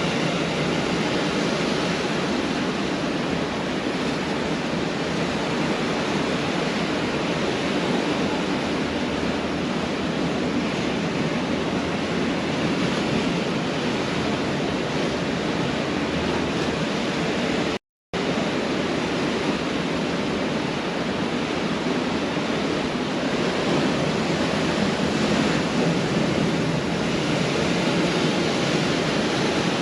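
Pacific Ocean surf breaking and washing on a beach, a steady dense rush of water noise. The sound cuts out completely for a moment about two-thirds of the way in.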